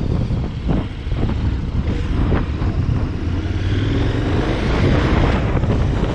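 Heavy wind buffeting on the microphone over a vehicle's running engine, the engine note rising about four seconds in.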